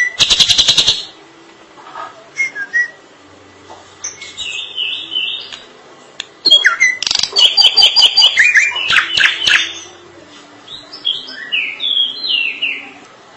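Drongo singing: a rapid rattling burst at the start, then scattered short notes. About halfway through comes a loud run of repeated, chattering notes, and near the end a string of short falling whistles.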